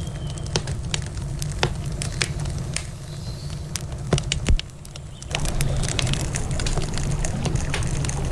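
Wood campfire crackling, with sharp pops scattered irregularly throughout. Underneath runs the river's steady rushing noise, which dips briefly and swells again about five seconds in.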